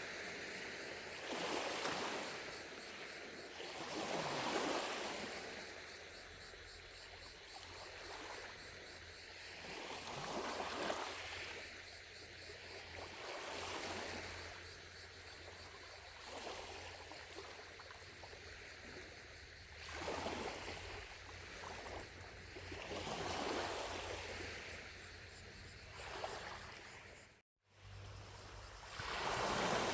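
Small lake waves lapping against the shore, a soft wash swelling every few seconds, under a faint steady trill of distant cicadas. The sound drops out for a split second near the end.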